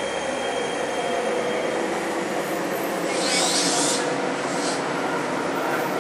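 Queensland Rail electric Tilt Train rolling slowly past along the platform as it draws in to stop, with a steady hum. A burst of hiss comes about three seconds in and again briefly near five seconds.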